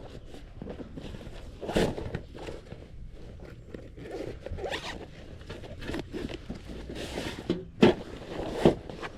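A zipper pulled in several short rasping strokes, the two sharpest near the end.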